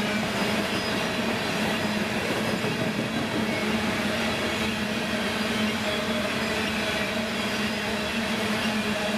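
Freight train passing steadily, its cars rolling by with continuous running noise and a steady low hum.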